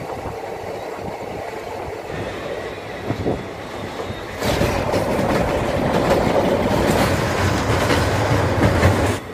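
Black Diamond Express passenger coach running along the track, heard from its open door: a steady rumble and rattle of wheels on rails with rushing air. It gets louder about four and a half seconds in.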